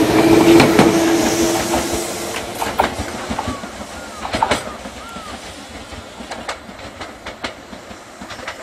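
Tobu 200 series electric limited-express train running close past, loud at first with a steady humming tone, then fading away over about two seconds. After that it is quieter, with scattered clicks and clacks of wheels on the rails.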